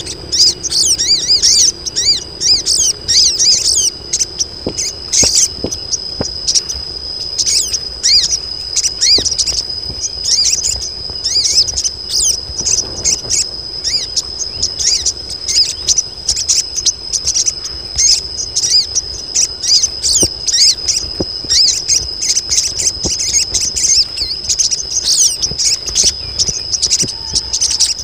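A colony of female sogon birds chattering in rapid, high, overlapping chirps: the in-heat female calls used as a lure to draw males. A steady high tone runs underneath.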